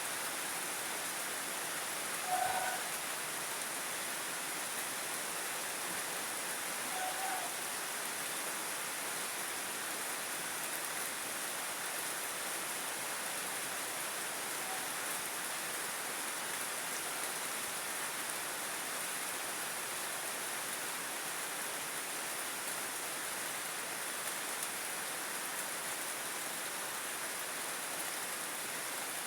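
Heavy rain falling in a steady, even hiss. Two brief pitched sounds stand out faintly, about two seconds in and again around seven seconds.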